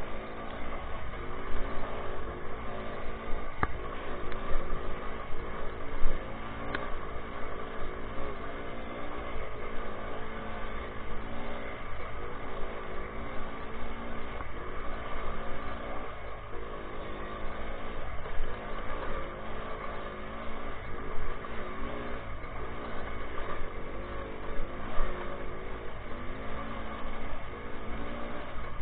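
Minsk motorcycle's two-stroke single-cylinder engine running under load, its revs rising and falling over and over.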